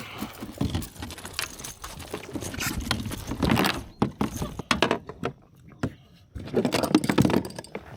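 Irregular knocks, clicks and scuffing in a kayak as a just-caught smallmouth bass is landed and handled, with two longer noisy stretches of thrashing and handling about three and a half and seven seconds in.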